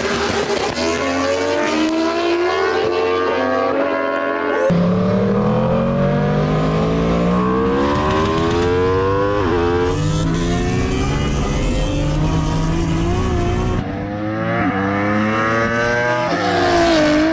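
A superbike and a Toyota Supra accelerating hard side by side in a drag race, their engines climbing in pitch and dropping back at each of several upshifts.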